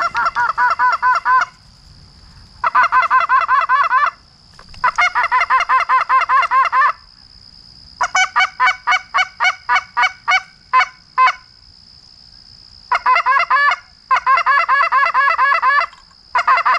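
Hand-held goose call blown in rapid strings of short honks and clucks, about five a second, in several runs broken by short pauses, to bring in approaching Canada geese.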